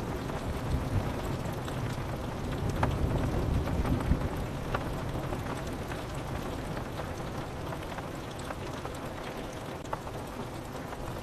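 Steady rain on window glass, with scattered drop ticks. The low rumble of a thunderclap dies away over the first few seconds.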